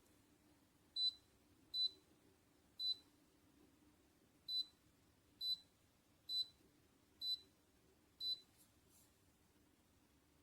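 Eight short, high electronic beeps at uneven intervals, like key-press beeps from a beverage refrigerator's touch control panel, over a faint steady hum.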